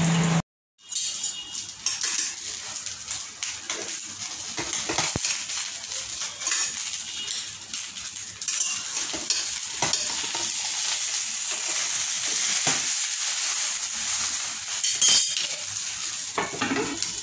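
Banana-leaf-wrapped fish parcel frying in a steel pan, a steady sizzle throughout, with a metal spatula scraping and tapping against the pan as the parcel is turned. A louder clink about fifteen seconds in, as the glass lid is handled.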